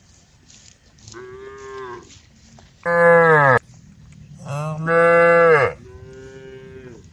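Cows mooing, calling to the herd: four long moos, the middle two loud and lower-pitched, the first and last quieter and higher.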